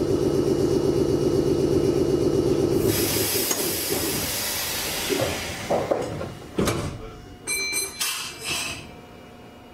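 Meitetsu 6800-series commuter train standing at a station stop: a steady buzzing tone, then a burst of air hiss about three seconds in, followed by several thuds and a short chime near the end.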